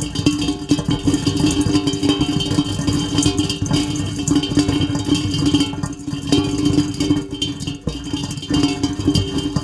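Heavy rain falling steadily, a dense patter of drops, under a steady low tone.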